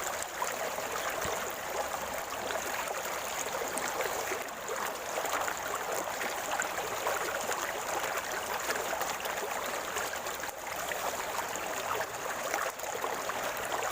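River water flowing and gurgling over rocks, a steady rushing splash with constant small bubbling flickers.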